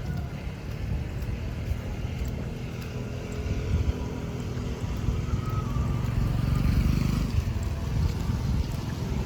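Street traffic: motorbike and car engines running past in a steady low rumble, swelling as one passes close about two thirds of the way through.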